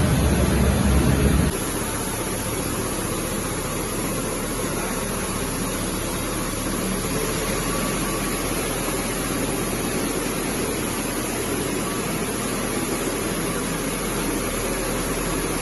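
Steady machinery noise with a constant hiss; a heavier low rumble cuts off suddenly about a second and a half in, leaving the even hissing drone.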